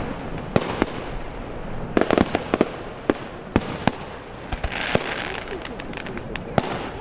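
Fireworks display: a string of sharp bangs from bursting shells, several in a quick cluster about two seconds in, over a continuous rushing hiss.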